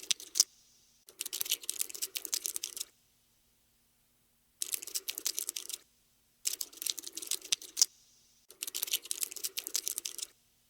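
Cockroach scuttling sound effect: rapid skittering clicks in bursts of one to two seconds, separated by silent gaps, about five times.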